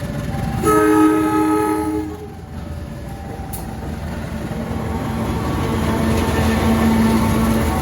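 Train horn sounding one blast of a little over a second, several tones at once. Then a train draws near, its rumble and engine noise growing steadily louder toward the end.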